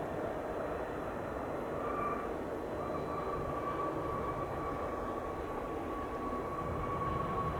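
Dassault Falcon 2000 business jet on its landing rollout: a steady rush of jet engine noise, with a high whine that sets in about two seconds in and slowly drops in pitch.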